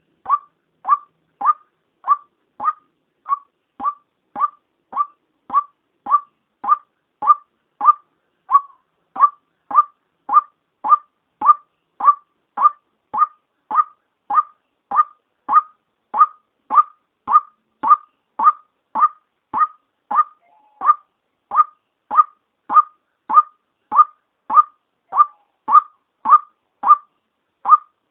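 Female white-breasted waterhen (Amaurornis phoenicurus) calling, played as a lure for trapping: short, sharp notes repeated steadily at a little under two a second.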